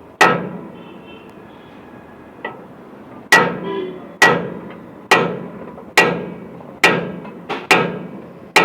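Heavy hammer blows on steel with a short metallic ring after each: a wheel stud being knocked out of a truck's wheel hub. One blow comes at the start, then after a pause seven more land at a steady pace of about one a second, with a couple of lighter taps between them.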